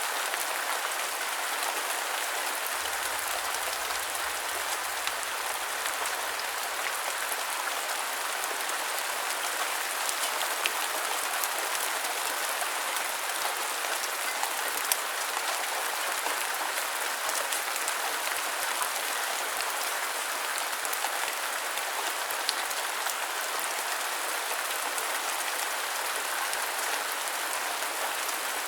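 Steady rain falling on a surface: an even hiss with a few louder single drops ticking through it.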